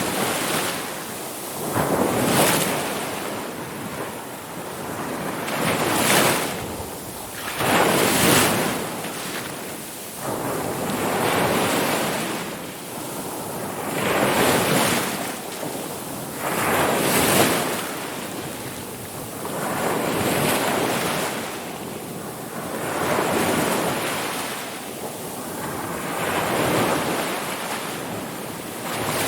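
Ocean waves rolling in and breaking on the shore, each wash swelling and fading every few seconds.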